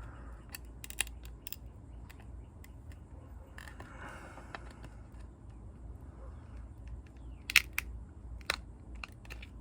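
Small clicks and taps of parts being handled while the rear suspension of a model car is worked loose, with one sharper click about seven and a half seconds in, over a low steady hum.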